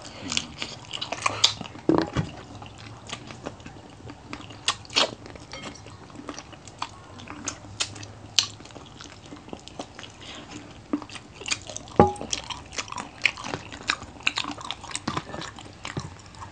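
Two people chewing and biting crispy fried chicken feet, close to the microphone: irregular crunches, clicks and mouth noises, with one sharper crack about twelve seconds in.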